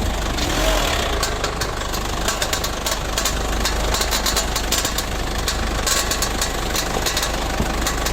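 Ford Everest engine idling with an irregular knocking and clicking from the front of the engine bay. The mechanic traces the knock to a worn, loose idler pulley striking as it turns.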